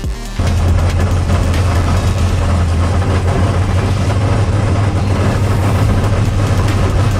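Drag race car engine idling, a loud, steady low rumble that cuts in suddenly about half a second in.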